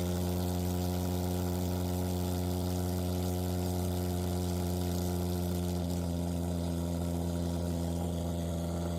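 Royal Fogger RF 180 thermal fogging machine running steadily: its pulse-jet engine gives an even, low buzzing drone that holds the same pitch and level, with the solution valve open so the machine is fogging.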